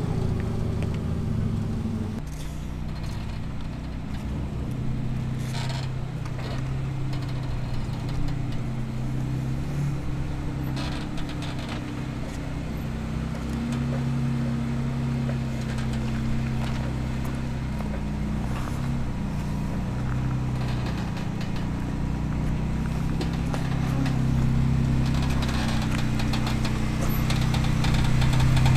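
Jeep engine running at low revs while crawling, its pitch rising and falling with the throttle, with a few short knocks in between.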